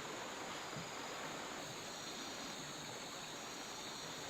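Steady rainforest background: an even hiss of running water with a high, constant insect drone over it.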